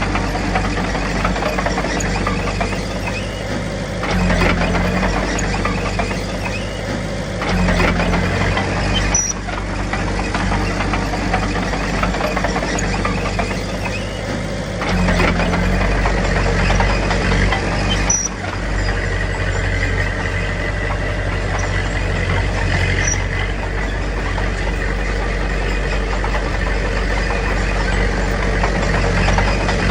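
Heavy diesel earthmoving machinery running: a bulldozer and dump truck engine sound working steadily. It surges louder about four seconds in, again near eight seconds and at fifteen seconds, with a few short knocks.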